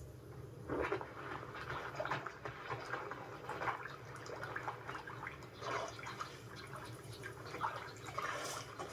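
Water splashing and dripping in irregular bursts as elephants drink at a waterhole, heard from a TV documentary, over a low steady hum.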